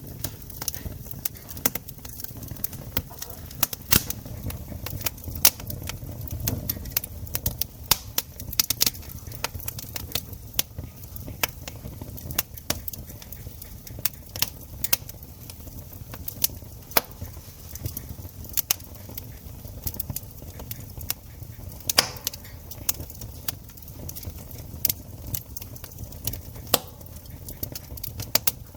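Wood campfire crackling, with frequent irregular sharp pops and snaps over a low, steady sound of burning. One snap about 22 seconds in stands out.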